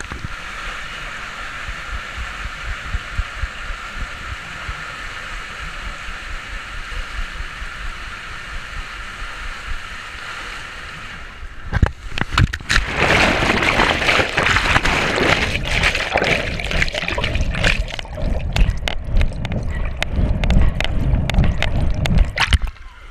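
Steady rush of water running down a water slide, then about twelve seconds in a sudden burst of loud, churning splashing that goes on for about ten seconds and cuts off abruptly near the end.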